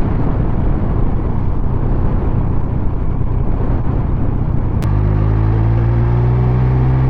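Triumph Speed Triple 1200 RS inline-three motorcycle under way, its engine rumble buried in rushing wind noise. About five seconds in there is a click, the wind noise drops back, and the engine settles into a steady, even note.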